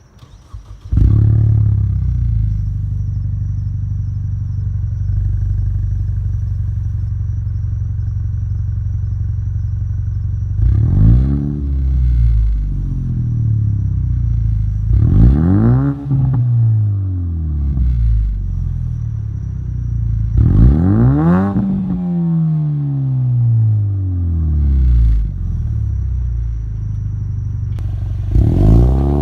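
2016 Ford Mustang EcoBoost's 2.3-litre turbocharged four-cylinder, breathing through an MBRP Race cat-back exhaust, starts up about a second in and settles into a steady idle. After that it is revved several times in short blips, each rising and falling back to idle, with the longest rev about two thirds of the way through and another beginning near the end.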